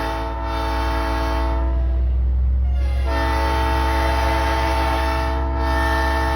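Nathan Airchime P3 train horn on a big rig sounding a long chord, breaking off about two seconds in and blowing again a second later, held to the end, over the truck's steady low engine drone.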